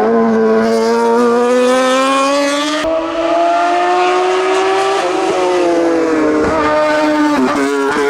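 Hillclimb racing car's engine at high revs under hard throttle. The note climbs slowly for a few seconds, then falls away, with several quick dips in pitch near the end.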